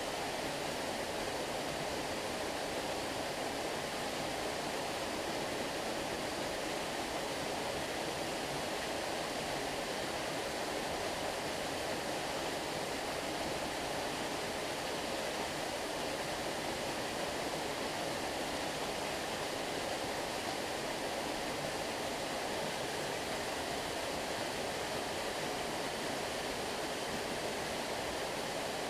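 Stream water flowing steadily: an even, unbroken rushing with no separate splashes or other events.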